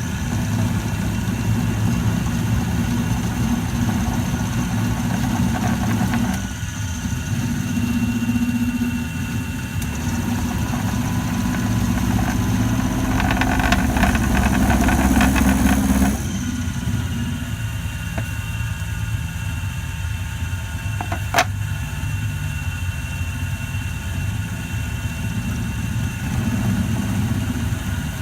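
Milling machine running steadily while cutting a steel knurling tool. Roughly halfway through, the cutting grows louder and harsher for about three seconds, then stops abruptly, and a single sharp click follows a few seconds later.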